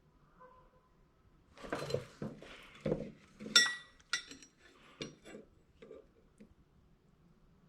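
Metal objects being handled, clanking and clinking in a quick run of knocks, with a couple of sharp ringing clinks about three and a half to four seconds in.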